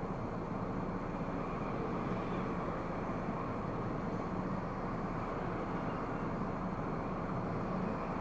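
Steady road and engine noise of a car driving, heard from inside the cabin through a dashcam microphone.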